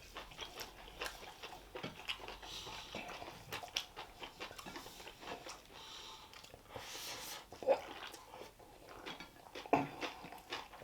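Close-miked mouth noises of eating: chewing, lip-smacking and small wet clicks, irregular throughout.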